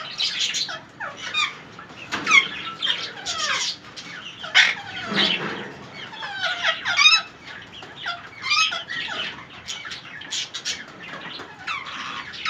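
Plum-headed parakeets calling over and over: many short, high calls that slide downward in pitch, often overlapping.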